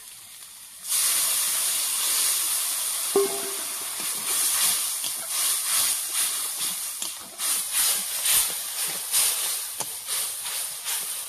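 Hot oil and masala in a steel kadai over a wood fire sizzling hard as a yellow liquid masala goes in, the hiss starting suddenly about a second in, then sputtering and crackling while it is stirred with a ladle.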